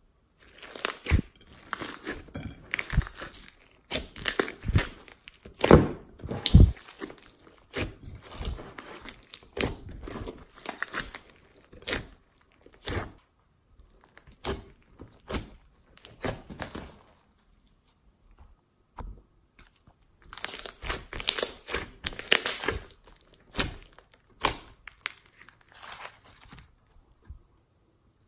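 Slime being kneaded, squished and pulled by hand, making irregular crackling, popping and crunching sounds. It pauses about two-thirds of the way through, then starts again.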